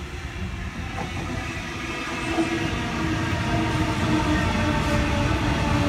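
Sydney Trains Waratah electric train pulling into the platform: wheels rumbling on the rails under a steady set of humming tones from its traction motors, growing louder as the carriages run past.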